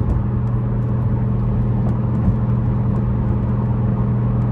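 A 2013 BMW 550i's twin-turbo V8 with catless downpipes, an H-pipe and a muffler delete, droning steadily while the car is driven at a constant engine speed.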